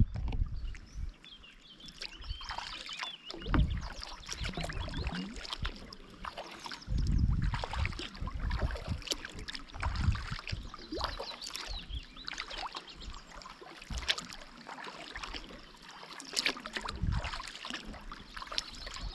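Kayak paddle strokes in lake water: the blades dip and splash again and again in an uneven rhythm, with small splashes and drips between the stronger strokes.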